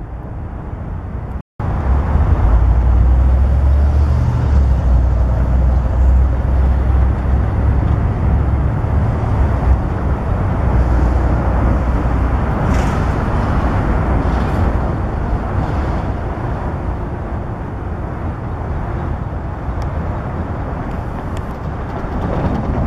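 Diesel freight locomotive leading a train of autorack cars, its engine drone and the rumble of wheels on rail running steadily. The sound is loudest in the first half and eases off gradually later.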